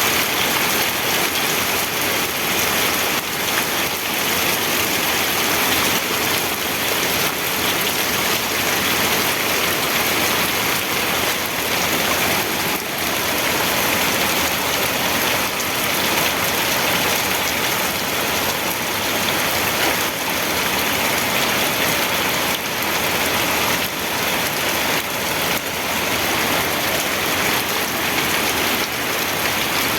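Steady rain falling on a surface, a dense even hiss with faint drop patter.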